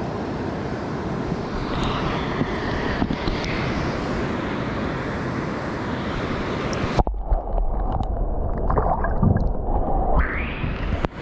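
Water and wind noise on the microphone at a kayak, a steady rushing hiss. About seven seconds in it abruptly turns muffled and low, with a heavy rumble and gurgles, for about three seconds before opening up again.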